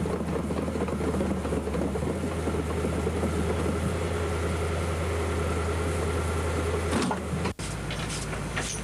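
Lifeboat launching tractor's engine running steadily, with a brief sudden dropout near the end.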